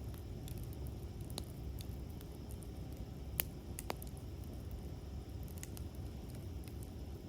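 Wood campfire crackling: scattered sharp pops and ticks, two of them louder about halfway through, over a steady low rumble.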